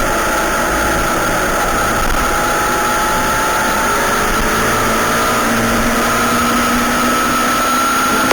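Yamaha YZF-R6 inline-four engine running at steady high revs, a sustained whine that creeps slightly higher in pitch in the second half, over a steady rush of noise.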